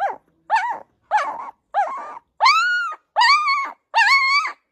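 A dog giving a run of seven high-pitched, whining yelps, about one every two-thirds of a second; from about two seconds in they grow longer and louder.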